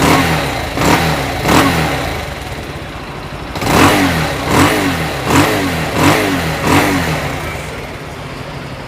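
Bajaj Pulsar 220 BS4's single-cylinder engine idling and revved in about eight quick throttle blips. It makes a harsh, cracked-sounding noise that the mechanic thinks comes from the balancer's scissor gear in the clutch housing.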